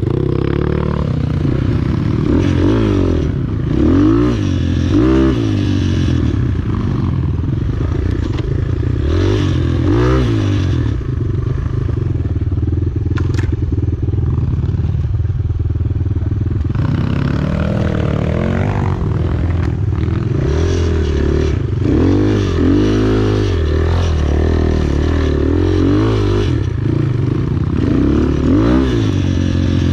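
Enduro motorcycle engine being ridden, its pitch rising and falling again and again as the throttle opens and closes, with a steadier stretch about halfway through.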